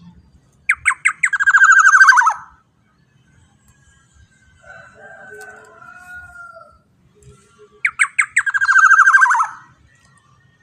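Black-naped oriole (kepodang emas) calling loudly twice, about six seconds apart. Each call is a few quick separate notes running into a fast rattling trill that drops slightly in pitch. Fainter, softer calls come in between.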